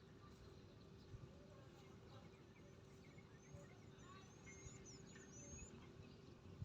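Near silence: faint farmyard ambience with a steady low hum, and a quick run of small high bird chirps about two-thirds of the way through.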